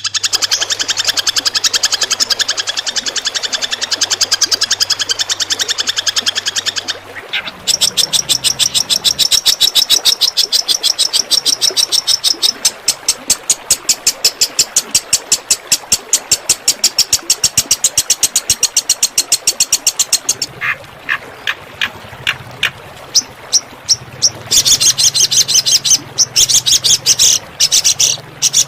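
Recorded songbird calls played for bird training, in the rapid-fire 'tembakan' style. A dense high trill gives way about seven seconds in to a long, very fast run of sharp repeated notes. Later come a few spaced chips, then dense song again near the end.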